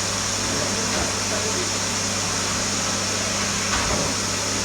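Vacuum cleaner running steadily, a constant motor hum under a rush of air, with a couple of faint knocks, one about a second in and one near the end.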